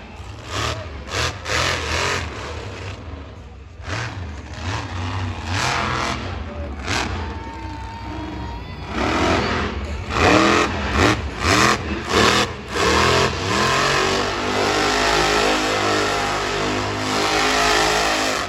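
Monster truck engine revving hard in repeated bursts, then held at a steady note for several seconds near the end.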